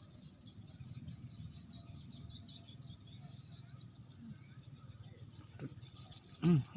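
Insects, crickets, chirring steadily with a fast, high-pitched pulsing trill, over a low rumble of background noise. A short human vocal sound comes near the end.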